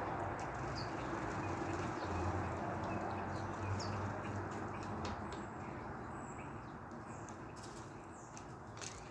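A few short, faint bird chirps scattered over a steady low rumble of background noise.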